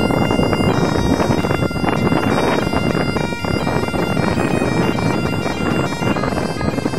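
Bagpipe music: a piped tune played over a steady drone.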